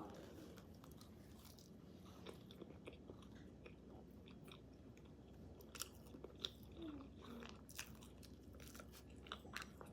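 Faint close-up chewing of a mouthful of food, with scattered soft crunches and clicks, more of them in the second half.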